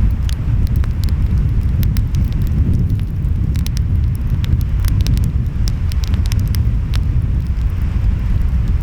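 Wood fire crackling with many sharp, irregular pops, over a steady low rumble of wind and surf.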